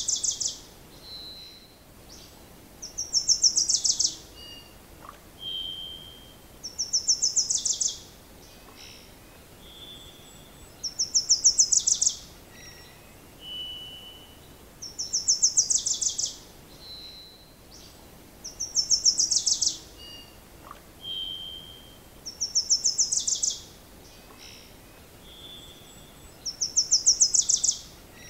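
A songbird singing the same short song over and over, about every four seconds: a thin high note followed by a fast, very high trill that drops away at its end, against a faint steady hiss.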